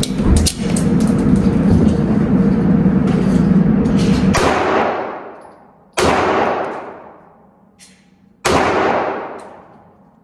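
Three gunshots about four and a half, six and eight and a half seconds in, each followed by a long echoing decay of a large indoor range. Before them, a loud steady rumbling noise with scattered clicks fills the first four seconds or so.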